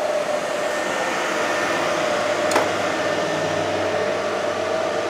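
Fanuc Red Top servo motors running on the bench under Centroid AC/DC drives: a steady whir with a constant high tone. A single click comes about two and a half seconds in, and a lower hum joins soon after.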